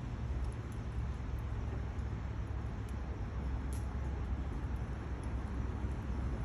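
A wood fire burning in a stainless steel Bushbox XL stove: a steady low rumble with a few faint, sharp crackles, the clearest a little past the middle.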